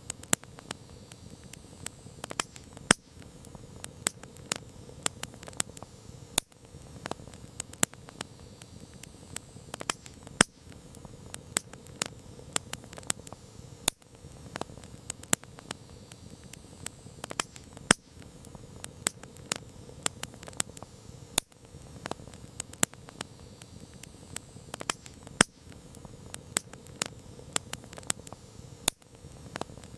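Wood campfire crackling: irregular sharp pops and snaps, several a second, some louder than others, over a steady soft rush of the burning fire.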